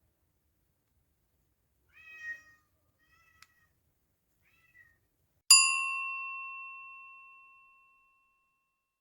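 A cat meows a few short times, then a single bell-like chime is struck about halfway through and rings out, fading over about two seconds.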